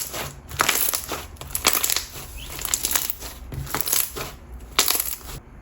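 Coated clear slime with jelly cubes being squished and worked by hand, making crackly, squelchy bursts about twice a second.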